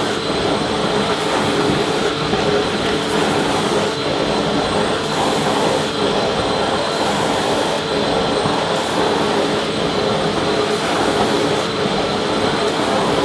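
Vacuum cleaner motor running steadily: an even rushing of air with a steady whine held underneath it.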